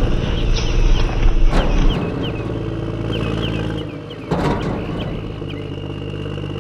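A motor or engine running steadily with a low hum, with a few short high chirps and a couple of clattering knocks, one about four seconds in.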